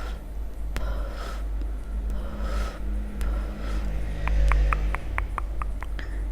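A quick run of about nine short, sharp clicks a little past the middle, over a steady low background rumble.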